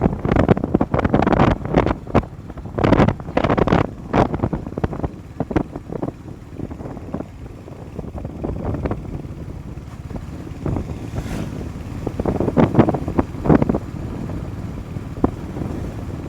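Wind buffeting the microphone in irregular gusts during a motorcycle ride, over a steady rumble of engine and road noise. The gusts are heaviest in the first few seconds and again near the end.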